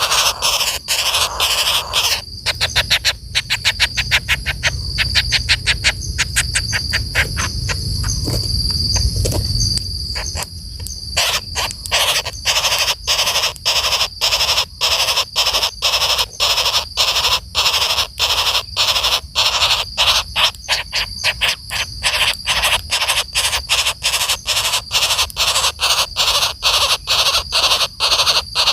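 Common flameback woodpecker calling in a long run of rapid, harsh notes, a few a second, much faster for several seconds near the start, with a low rumble under that faster stretch.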